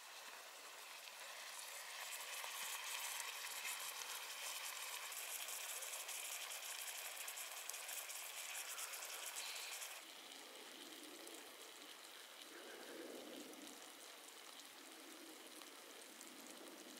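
Sliced steak and vegetables sizzling in a cast-iron skillet: a steady frying hiss that builds over the first couple of seconds, then drops suddenly to a quieter sizzle about ten seconds in.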